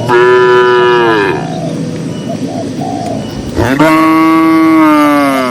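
Cattle mooing: two long moos, the first lasting just over a second and the second about two seconds, each falling in pitch as it ends. Short bird calls, like doves cooing, sound faintly between them.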